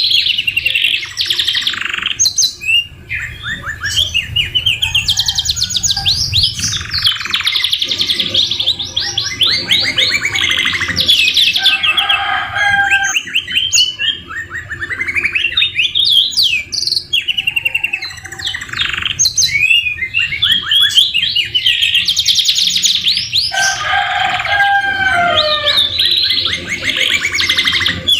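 Domestic canary singing a continuous song of rapid rolling trills and chatter, phrase after phrase. A couple of times it drops into lower slurred whistles. The song is filled with phrases of the white-rumped shama (murai batu).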